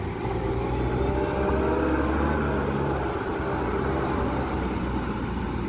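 Wheel loader's diesel engine running under load as it works, growing louder over the first second or two and then holding steady.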